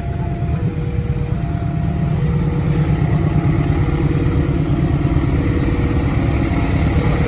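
Deep, steady engine rumble of a train drawing near, slowly getting louder, with an electronic level-crossing warning alternating between two tones over it.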